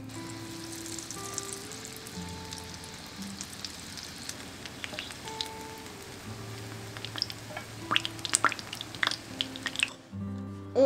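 Veg cutlets shallow-frying in oil in a non-stick pan, a steady sizzle with sharper pops and spits in the later seconds, over soft background music. The sizzle cuts off abruptly near the end.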